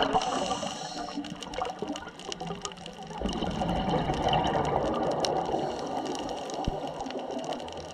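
Underwater sound on a dive: a rush of bubbling water that grows louder about three seconds in, over a constant crackle of small clicks.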